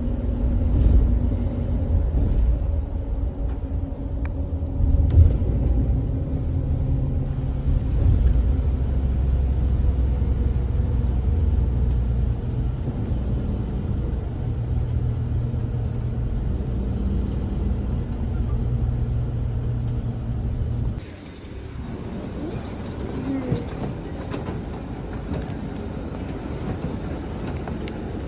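Steady low rumble of a vehicle in motion, with a low engine hum. About 21 seconds in it cuts off abruptly, leaving a quieter, hissier background.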